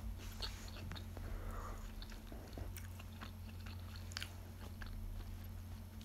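Close-up chewing of a mouthful of chicken burrito: soft, scattered mouth clicks and smacks over a steady low hum.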